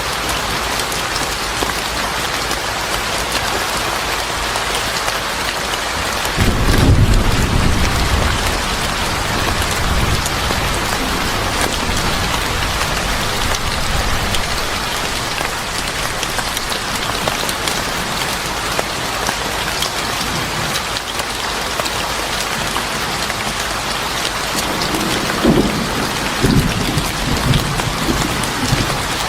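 Steady, heavy rain falling. A low rumble of thunder swells about six seconds in and fades over a few seconds, and more rumbling comes near the end.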